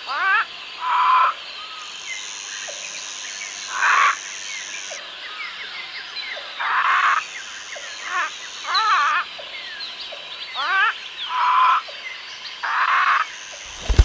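Parrots squawking: harsh calls of about half a second, repeated every second or two, some sliding upward in pitch. Behind them are many smaller bird chirps and a high steady buzz that comes and goes. A short sharp noise at the very end.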